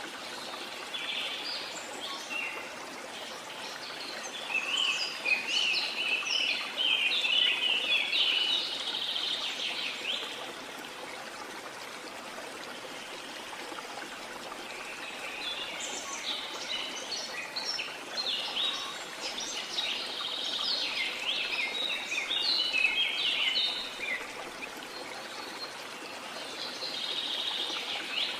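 Waterfall rushing steadily, with birds singing over it in two long bouts of quick, chattering notes and a third bout starting near the end.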